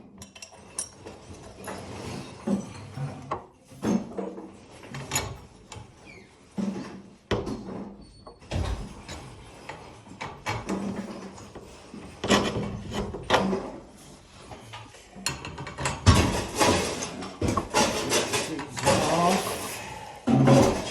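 Irregular metal knocks, clicks and scraping as a garage door torsion spring is unwound by hand to take its tension off, growing busier and louder in the last third.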